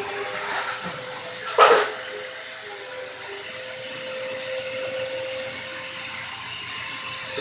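Vacuum cleaner running with a steady hum and whine, louder and more hissing for about a second and a half near the start.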